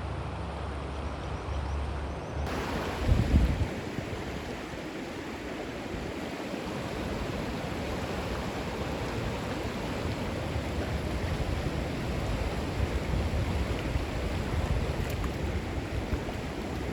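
Fast creek rapids rushing in a steady, even wash of water noise. For the first couple of seconds there is only a muffled low rumble, which gives way suddenly to the water; a brief low thump follows about a second later.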